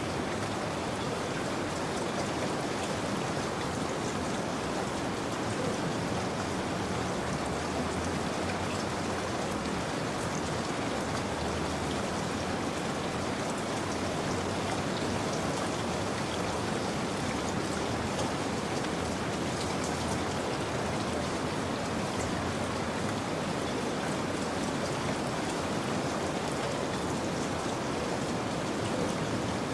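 Steady rainfall, with drops pattering on a surface, unchanging throughout.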